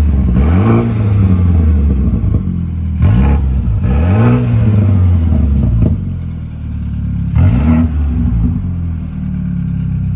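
BMW 328i engine running on a cold start, revved in three short throttle blips, about half a second, three seconds and seven and a half seconds in. Each time the pitch rises and falls back to a steady idle.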